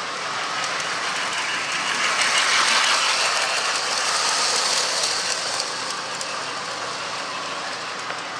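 Lionel Santa's Flyer O-gauge toy freight train running on three-rail O27 track: a steady rolling clatter of small wheels on the rails. It grows louder about two seconds in and eases back after about five seconds as the train passes close by.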